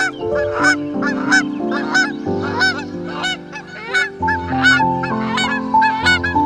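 Geese honking rapidly, a few short calls a second, over background music with sustained chords.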